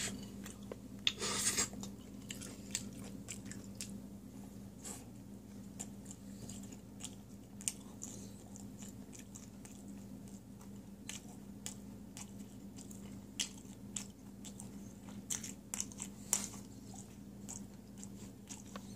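Close-miked chewing of thick-crusted square pizza: a run of short wet mouth clicks and smacks, with a couple of louder bites near the start, over a steady low hum.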